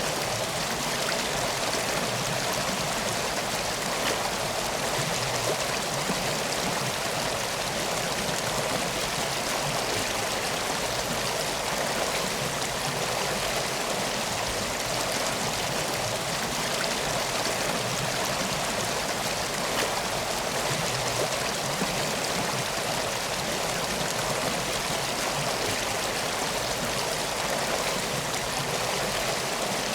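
A river's water flowing steadily, an even, unbroken rush.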